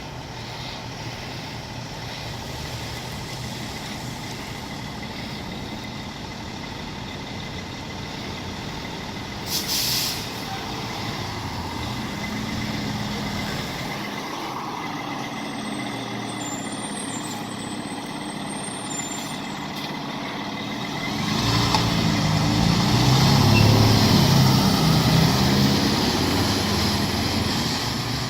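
Fire engine's diesel engine running, with a short hiss of air brake release about a third of the way in. Near the end the engine grows much louder as the truck pulls away under power.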